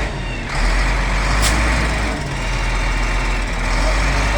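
Wheel loader's diesel engine running steadily at work, with a brief high hiss about one and a half seconds in.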